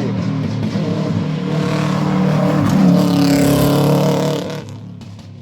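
Rally car engine running hard as the car passes at speed. The engine note builds to its loudest about three seconds in, then fades as the car goes away.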